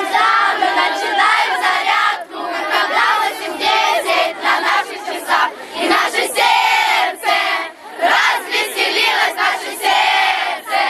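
A crowd of children shouting and chanting together in loud phrases with short breaks.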